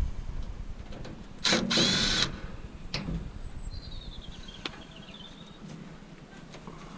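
A short burst of a power tool, a little under a second long, about a second and a half in, then scattered metallic clicks and knocks of scrap being worked apart by hand.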